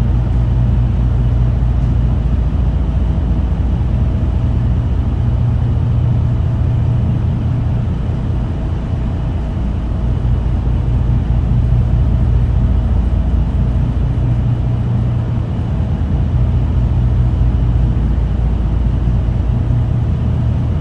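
Ferry's diesel engines running with a steady low drone, over the rushing wash of the ship's wake, the level swelling and easing slowly.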